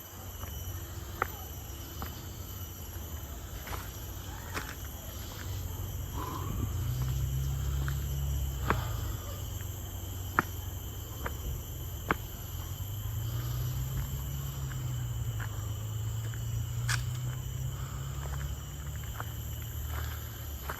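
Steady high-pitched insect chorus from forest crickets or cicadas, with a low rumble that swells twice and a few scattered sharp ticks.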